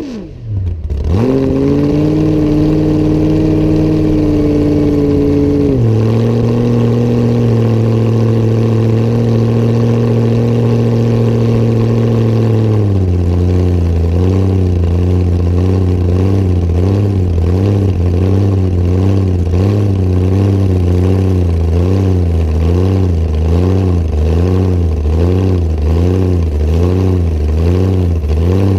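Hot rod coupe's engine running: a rev falls away just as it begins, then a steady note that steps down in pitch about six seconds in. From about thirteen seconds the note wavers up and down about once a second, like a lumpy idle.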